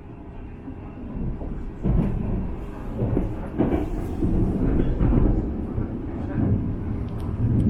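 Cabin noise of a CRH electric multiple-unit train running at speed: a steady low rumble of wheels on rails with irregular low thumps, louder from about two seconds in.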